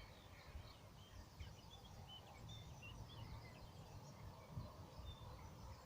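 Faint birdsong: many short chirps and warbles from several small birds, over a low rumble.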